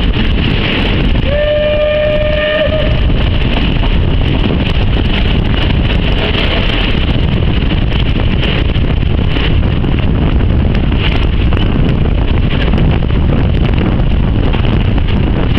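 A moving passenger train's steady rumble and wind noise, heard from an open carriage window. About a second in, a locomotive's whistle sounds once, one held tone for about a second and a half.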